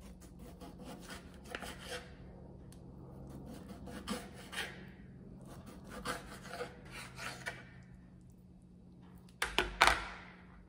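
Kitchen knife slicing through a firm food on a plastic cutting board, in several groups of quick cuts, each stroke knocking on the board. Near the end comes a louder clatter, the knife being set down on the board.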